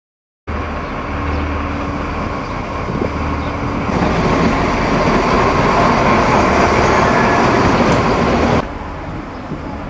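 A train running by at a railway station, a steady rumbling noise that grows louder about four seconds in, then drops suddenly near the end.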